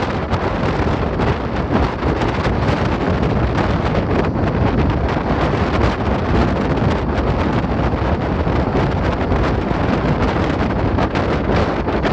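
Strong wind buffeting the microphone: a loud, steady rushing roar with rapid crackling gusts.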